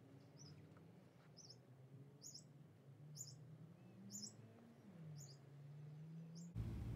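A bird repeating a short, high, falling chirp about once a second over a faint low hum. Near the end a louder low rumble comes in suddenly.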